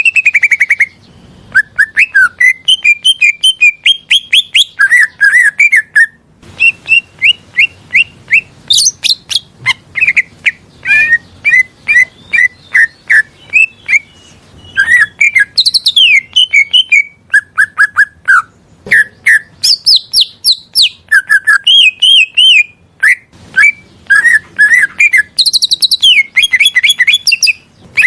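Green leafbird (cucak ijo) singing a fast, varied song: rapid runs of short chirps and whistled notes with a couple of brief pauses, over a faint low rushing of river water.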